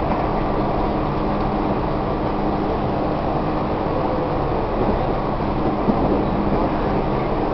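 Tobu 1800 series electric train running at speed, heard from inside the passenger cabin: a steady rumble and rush of wheels on rail, with a low motor hum that fades out about two-thirds of the way through.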